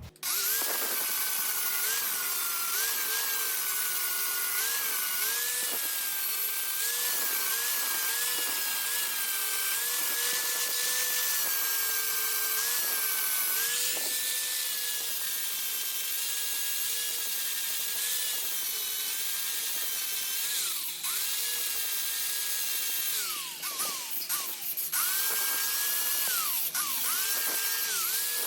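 High-speed handheld power grinder blending filled weld spots on a steel motorcycle frame: a steady whine that dips in pitch each time the tool bears on the metal and recovers as it lifts off. Around two-thirds in it winds down and back up a few times before running steadily again.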